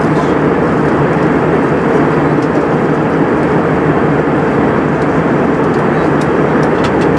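Steady cabin noise inside an Airbus A320 airliner: the continuous din of the engines and rushing air, with no change in level or pitch.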